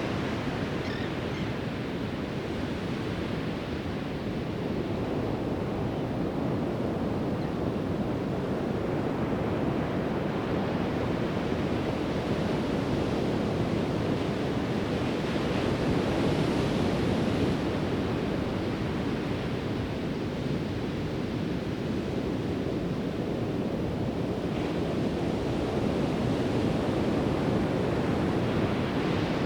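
Pacific Ocean surf on a sandy beach: a continuous wash of breaking waves, swelling and easing slowly as sets come in, with some wind on the microphone.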